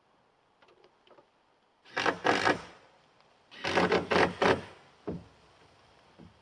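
A power tool run in short bursts against wood: two bursts, then four more after a pause, with faint knocks before and after.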